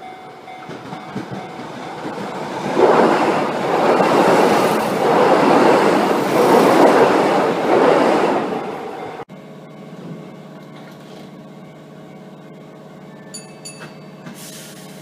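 A Keihan Railway electric train passing close by at a level crossing, its wheel and running noise building from about three seconds in and staying loud for several seconds. It cuts off suddenly to the steady hum of a Keihan train standing at a station platform.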